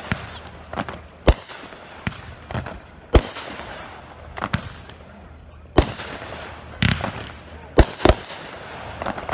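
Consumer firework cake firing a series of aerial shots: about a dozen sharp bangs at uneven intervals, roughly a second apart, with a faint hiss between them.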